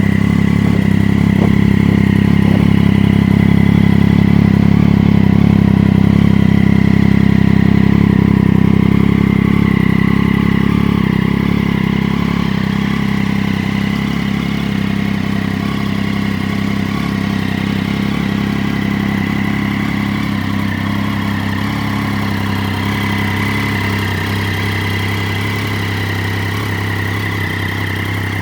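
Triumph Daytona 675's three-cylinder engine idling steadily, a little louder for the first third and then settling slightly quieter.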